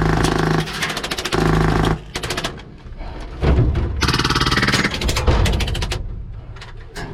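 Airsoft M249 light machine gun with a PolarStar compressed-air (HPA) engine firing on full auto. It fires three bursts of rapid shots, two short ones in the first two seconds and a longer one of about two and a half seconds from roughly the middle.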